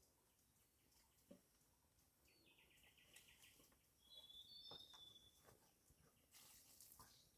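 Faint birds chirping against near silence: a quick trill about two and a half seconds in, then a brief whistled call a second or so later, with a few faint knocks between.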